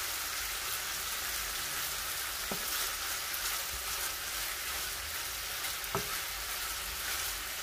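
Strips of chicken breast sizzling in hot oil in a nonstick frying pan over high heat while being stirred with a wooden spatula. The spatula knocks lightly against the pan twice, about two and a half seconds in and again near six seconds.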